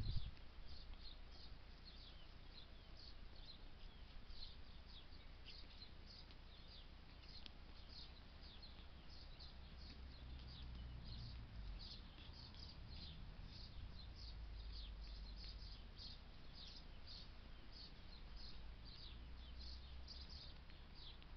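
Songbirds chirping in the background: a constant run of short, quick, high chirps, several a second, over a faint low rumble that swells now and then.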